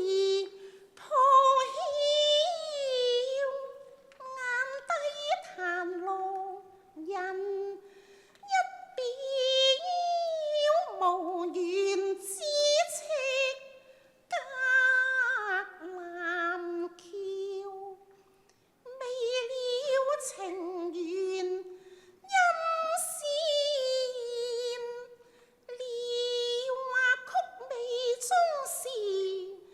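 A woman singing a Cantonese opera vocal line in long, sliding, ornamented notes, phrase after phrase with short breaths between.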